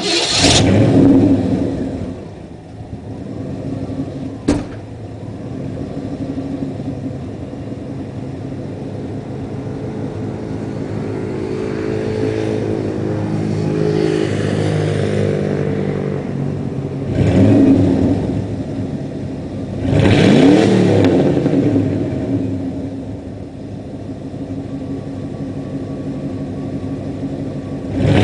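Ford F-150 engine running through an exhaust with one catalytic converter left and the second replaced by a straight pipe, so it is nearly straight-piped. It is revved at the start and twice more in the second half, settling back to a steady run in between. A single sharp click comes about four seconds in.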